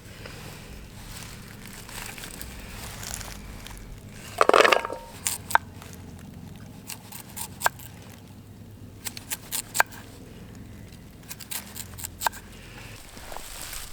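Campfire burning with scattered sharp crackles and pops. About four and a half seconds in there is one louder, brief clatter of handling.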